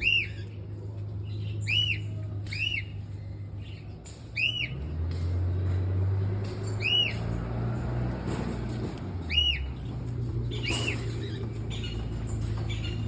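A bird giving short, single rising-and-falling calls, about seven of them spaced one to three seconds apart, over a steady low hum.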